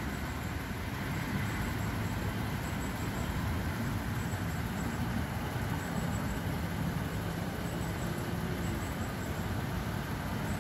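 Steady low rumble of a vehicle engine idling, with no distinct events.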